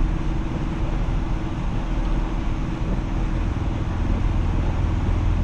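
Ford Focus RS running steadily at low speed through deep snow, heard inside the cabin: a steady low engine and drivetrain drone under a continuous rush of tyre and snow noise.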